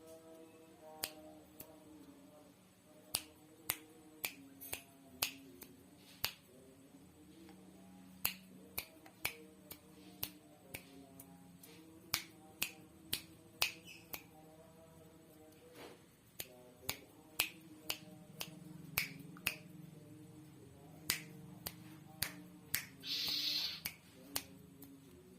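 A long series of sharp, irregularly spaced clicks or snaps, about one a second, over a faint steady hum, with a short hiss near the end.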